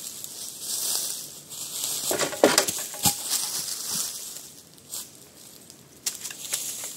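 Crunching and rustling in dry leaf litter with a few sharp clicks and knocks, the loudest cluster about two seconds in.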